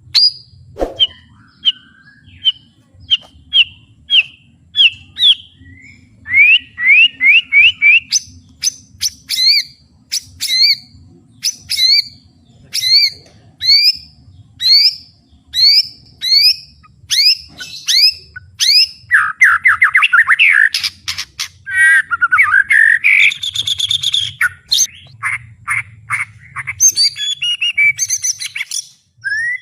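White-rumped shama singing at full volume: a long run of sharp, rising whistled notes at about one a second, then a fast chattering rattle of lower notes about two-thirds through, followed by varied mixed phrases.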